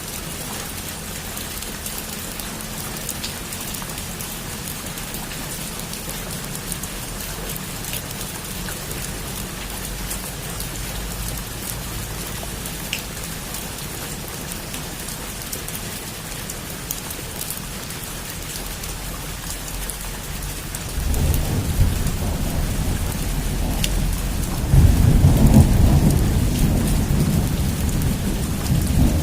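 Heavy rain falling steadily, with sharp drops pattering on a surface. About 21 s in, thunder starts to rumble, swelling to a loud peak a few seconds later and rolling on to the end.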